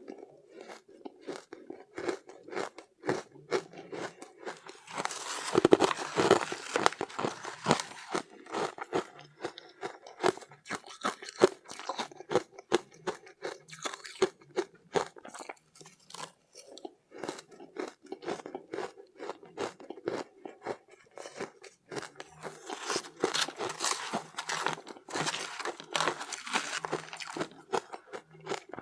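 Soft, powdery ice being bitten and chewed, with rapid crisp crunches throughout. There are two louder, denser spells of crunching, about five seconds in and again about twenty-three seconds in.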